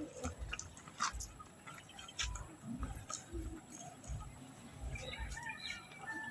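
Faint bird chirps and short whistles, scattered and becoming busier in the second half, with a held whistled note near the end, over soft low thuds.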